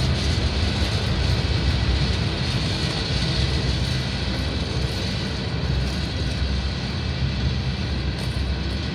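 Freight train of covered hopper cars rolling past on the rails: a steady low rumble of wheels and trucks.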